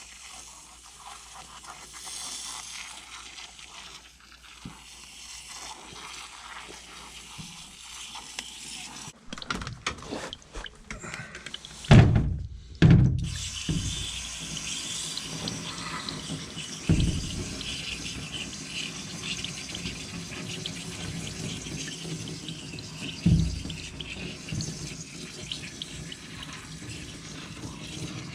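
Water spraying and splashing onto a dirty air-conditioning coil as it is cleaned, steady at first and heavier from about nine seconds in. A few sharp knocks sound over it.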